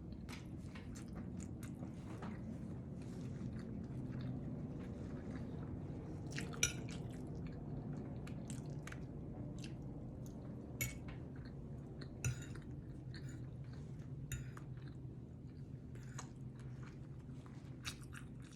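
A person chewing and biting food close to the microphone: many small wet mouth clicks, with a few louder sharp bites scattered throughout, over a steady low hum.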